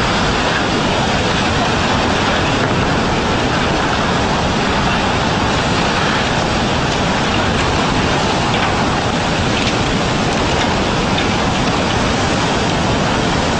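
Tsunami floodwater rushing, a loud, steady, unbroken wash of noise.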